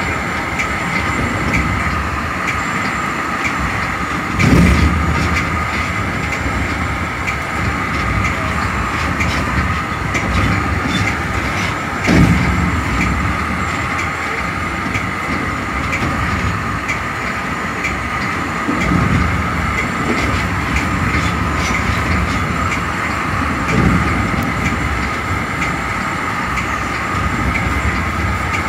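Metra commuter train running at speed, heard from inside its cab car: a steady rumble with a constant high hum and light regular clicking of the wheels. Four heavier thumps come at intervals as the wheels cross track joints or switches.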